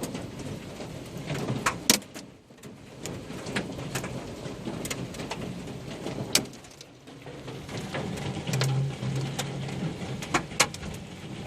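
Hailstorm: hailstones striking hard surfaces in irregular sharp knocks, a few much louder, over a steady hiss of falling rain and hail, with a low steady hum underneath.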